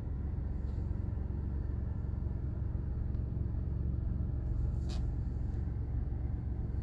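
Ford 3.5 EcoBoost twin-turbo V6 in an F-150 running at low speed with a steady low rumble, on freshly fitted spark plugs that were put in to cure a misfire. The misfire only showed under wide open throttle, and none is heard here.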